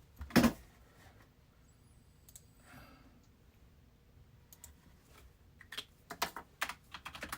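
Scattered sharp clicks and taps: one louder knock about half a second in, then a quick run of clicks near the end.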